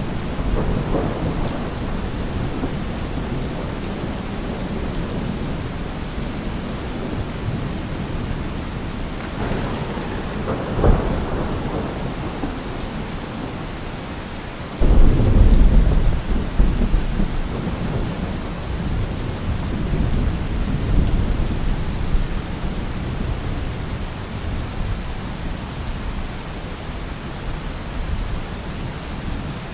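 Thunderstorm: steady heavy rain with rolling thunder. A sharp crack comes about a third of the way in, and a sudden loud thunderclap about halfway through rumbles away over several seconds.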